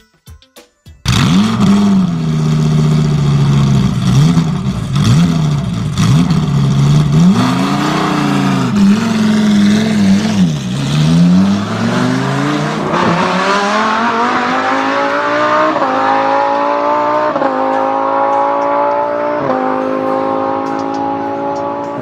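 Motor vehicle engine starting about a second in, revving up and down unevenly, then accelerating with its pitch climbing in steps as it shifts up through the gears.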